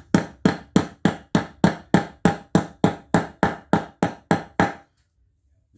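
Rapid, evenly spaced hammer blows, about three or four a second, driving a ball bearing into a mower wheel hub until it seats. Each strike rings briefly, and the blows stop suddenly near the end.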